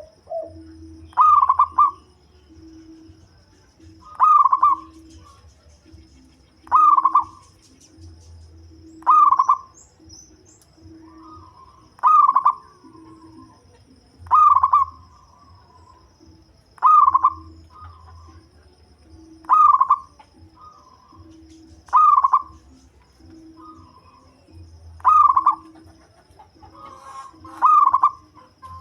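A zebra dove (local perkutut) with a deep voice cooing, repeating its short rolling call phrase about every two and a half seconds, eleven times.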